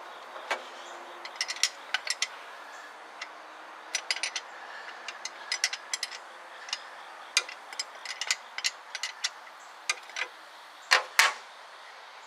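Irregular sharp metallic clicks and taps of hand tools working on the engine, some single and some in quick runs, the loudest pair near the end ringing briefly, over a steady background hiss.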